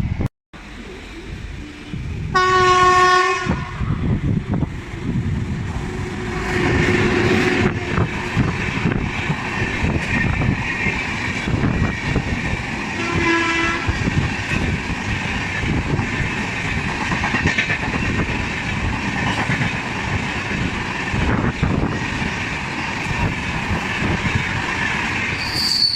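Indian Railways electric locomotive sounding its horn in a loud blast of about a second, then a shorter blast some ten seconds later. The train runs past with a steady rumble and the clatter of wheels on the rails.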